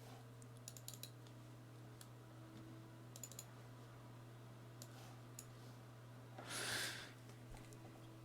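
Scattered sharp clicks, typical of a computer mouse, over a steady low electrical hum, with a short breathy hiss about six and a half seconds in.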